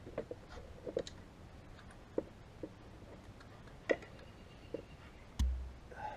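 Scattered light clicks and taps of tools and motorcycle parts being handled during hands-on work, with one heavier low thump about five seconds in.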